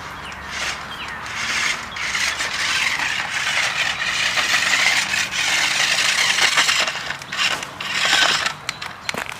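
A small four-wheel-drive RC monster truck running on a 3.7-volt battery, driving over rough ground. Its little electric motor and gears whine, the pitch wavering as the throttle changes, and its tyres scrape over the ground. The sound builds after about a second and drops away near the end.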